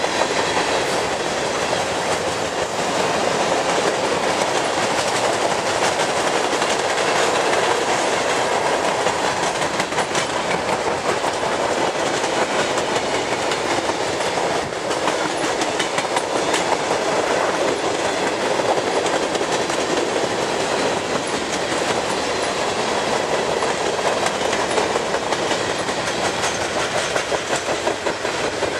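Freight cars of a mixed manifest train rolling past at close range: a steady rumble with the rapid clickety-clack of steel wheels over the rail joints.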